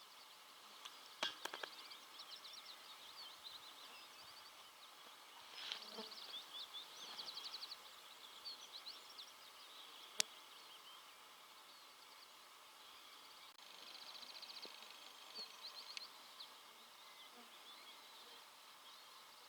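Songbirds singing, with repeated chirps and short trilled phrases over a faint outdoor hiss. A few sharp clicks: a cluster just over a second in, and the loudest a single click about ten seconds in.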